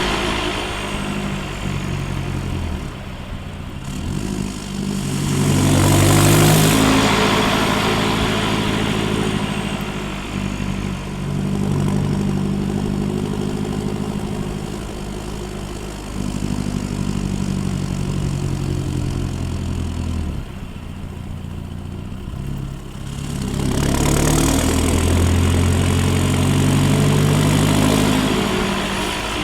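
Land Rover Defender 90's remapped 2.4 TDCi four-cylinder turbodiesel through a straight-through exhaust, rising in revs and dropping back several times. The loudest pulls come about six seconds in and again near the end.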